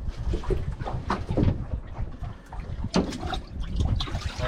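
Water splashing and lapping around a small fishing boat, with wind rumbling on the microphone. A few short knocks or splashes stand out, the sharpest about three seconds in.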